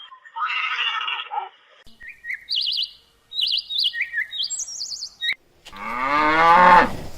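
Bird chirping in quick, high warbling notes, followed near the end by a longer, louder animal call with several pitches at once.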